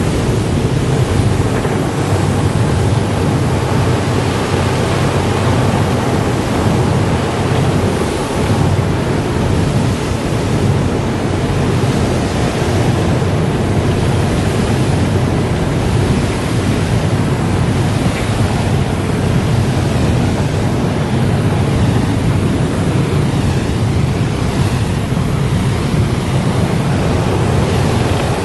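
Car wash running: a steady, loud rushing of water spray and machinery, with no distinct knocks or changes.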